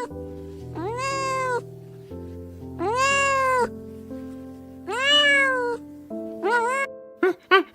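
A cat meowing four times, each call rising and then falling in pitch, over background music with held notes. Near the end a quick run of short, rapid calls begins.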